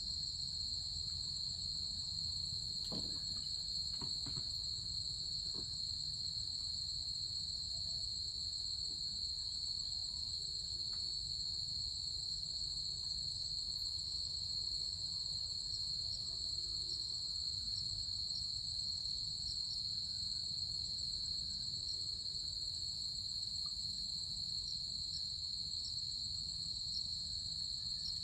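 A steady, unbroken chorus of insects trilling high and continuously, with a fine rapid pulse. A low steady rumble runs underneath, and a few faint clicks come about three to five seconds in.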